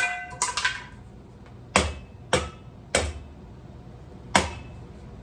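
A ceiling fan's metal parts being struck: sharp metallic knocks, a quick cluster of three with a brief ring at the start, then four more single knocks at uneven intervals of about half a second to a second and a half.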